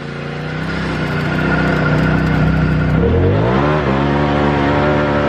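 Turbocharged side-by-side's engine running steadily under way, then revving up about three seconds in and holding the higher pitch, with a thin whine above the engine note.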